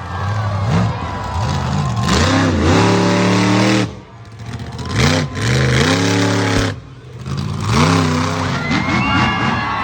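Monster truck engine revving hard in repeated bursts, its pitch climbing and falling several times, with two brief lulls about four and seven seconds in.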